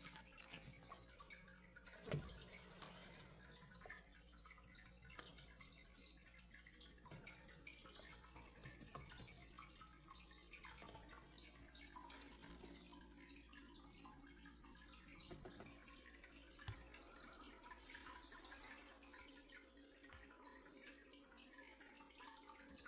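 Faint water dripping and trickling, with a soft knock about two seconds in and another about three-quarters of the way through.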